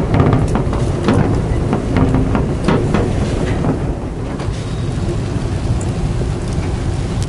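Bonfire of dead leaves and dry twigs burning, crackling with irregular sharp pops over a steady low rush.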